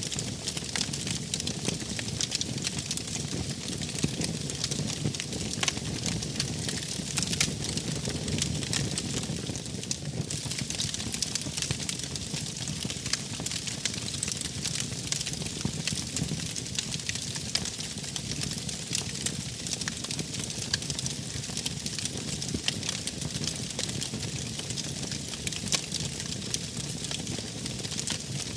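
Wood fire burning steadily, with dense irregular crackling and pops over a low, even rumble of the flames.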